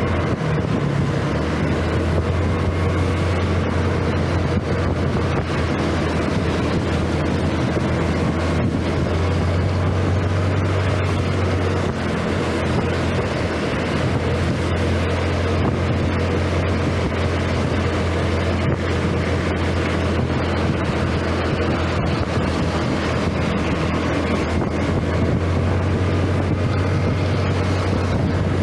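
Scooter engine running steadily under way, a constant low hum, with wind buffeting the microphone.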